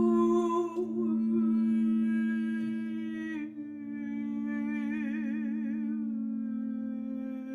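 A woman's voice humming and singing long, wordless held notes over a steady low drone, as in sound-healing toning. The sung pitch drops to a new note about halfway through, and the held note wavers with vibrato afterwards.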